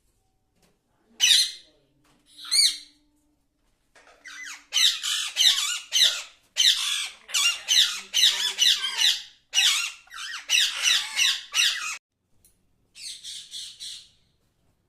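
Parrot squawking: two short calls, then a long run of rapid, repeated squawks lasting about eight seconds, and a quieter burst near the end.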